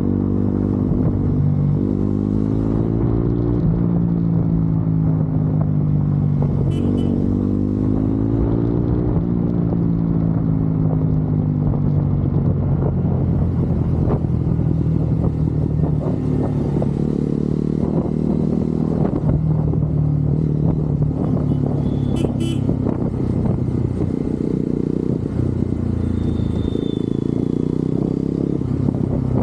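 Motorcycle engine running while riding, its pitch climbing and then dropping back several times over the first ten seconds as it goes up through the gears, then holding a steadier pace with gentle rises and falls.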